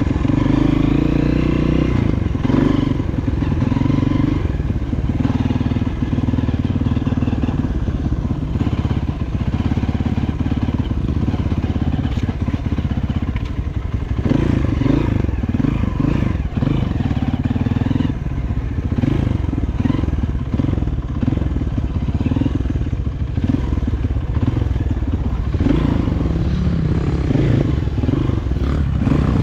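Honda CRF230F dirt bike's single-cylinder four-stroke engine running continuously as it is ridden, its note rising and falling as the throttle opens and closes.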